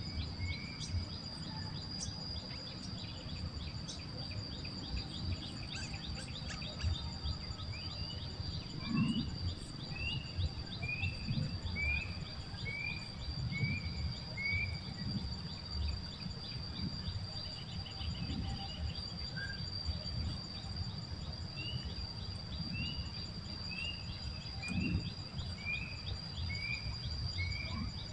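Steady high-pitched insect drone with runs of short, rising bird chirps repeated about once or twice a second, over a low rumbling background.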